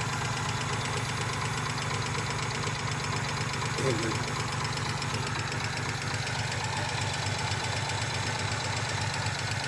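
Hyundai Tiburon engine idling unevenly with a fast, steady ticking knock: it is misfiring, and the owners are unsure whether the tick is a lifter, an injector or rod knock.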